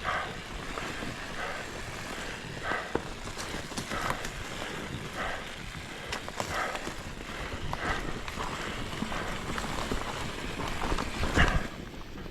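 Mountain bike rolling over a dirt singletrack trail, with a steady rush of tyre and riding noise and the rider's heavy breathing about every second and a half. A loud thump near the end as the bike hits a bump.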